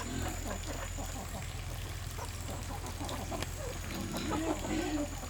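Farm animals calling: many short overlapping grunts and calls, with a few louder drawn-out calls about four seconds in, over a steady low hum.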